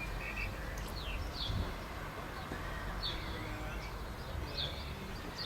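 Small bird giving short, high, falling chirps every second or so, over a steady low background rumble of outdoor noise.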